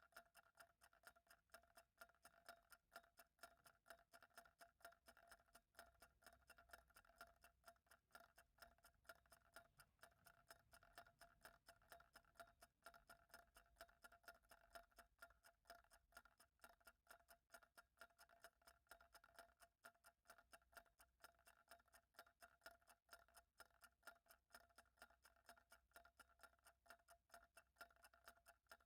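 Faint clock ticking, rapid and perfectly even.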